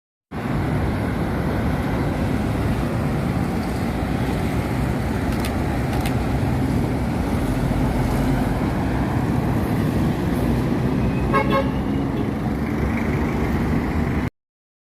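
Road traffic with trucks passing, a steady rumble, and one short horn toot about eleven seconds in. The sound begins and ends abruptly.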